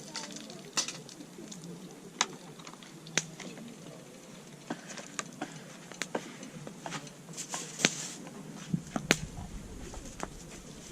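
Campfire wood crackling, with irregular sharp pops, and a dove cooing in the background.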